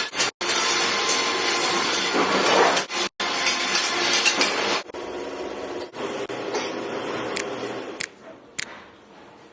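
Workshop tool noise from metalworking on a motorcycle wheel rim: a steady harsh noise that cuts off abruptly twice in the first three seconds, drops to a lower level about five seconds in, and ends with two sharp clicks.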